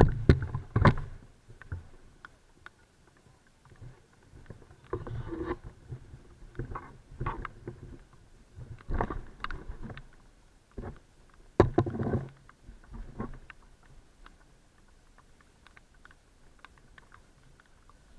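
Irregular water splashes and knocks in clusters a few seconds apart, fading to faint ticks near the end: someone moving and working in shallow floodwater.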